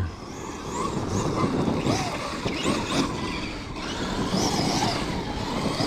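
Kyosho USA-1 Electric Edition RC monster truck driven hard over dirt: the electric drivetrain whines, its pitch rising and falling again and again with the throttle, over a steady rush of tyre and ground noise.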